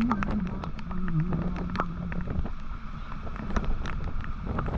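Motorcycle engine running steadily under way, its pitch dipping and rising slightly, over road rumble and wind buffeting the microphone with many short clicks.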